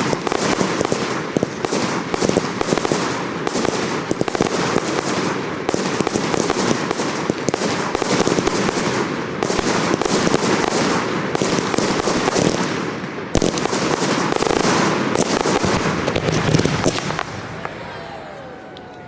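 Dense, continuous barrage of professional display fireworks: rapid overlapping bangs and crackle, with a sharp louder report about thirteen seconds in, fading away near the end.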